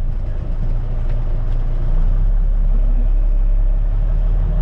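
Diesel engine of a 1974 Kenworth logging truck running steadily with a low, even drone.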